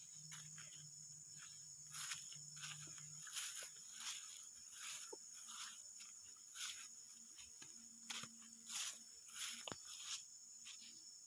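Insects chirring steadily at a high pitch in an oil palm plantation, with irregular rustling crunches of footsteps through dry undergrowth every second or so.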